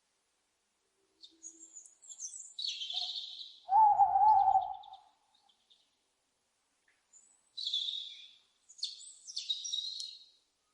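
Owls screeching: harsh, hissy calls in two spells, with a single lower, wavering hoot-like call about four seconds in that is the loudest sound.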